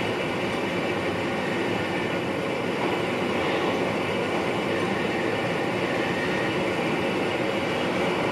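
Steady running noise heard from the driving cab of an NS VIRM double-deck electric multiple unit: an even rumble of wheels on rail and the train's own machinery, with no distinct knocks or squeals.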